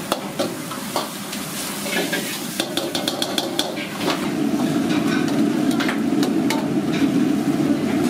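Butter and black pepper sizzling in a hot pan, with sharp clicks of a utensil against the pan; the frying gets louder and fuller about halfway through.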